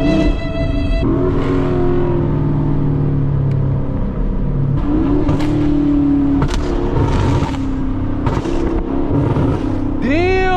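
Car engine revving up and down several times, with one sharp rev rising and falling in pitch near the end.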